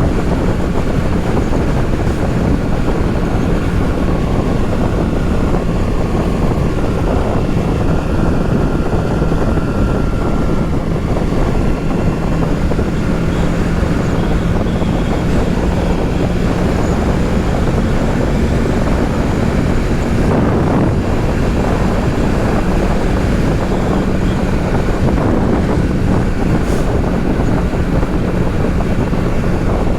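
Wind rushing over the microphone of a motorcycle in motion, with the Kawasaki Z650's parallel-twin engine running at a steady pitch underneath.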